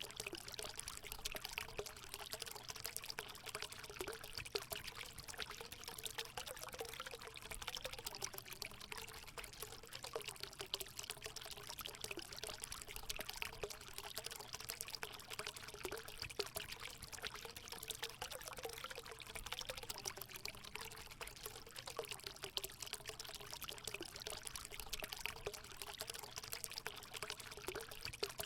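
Natural spring water running and pouring into a hot spring pool: a steady splashing stream with a gurgle that keeps wavering in pitch.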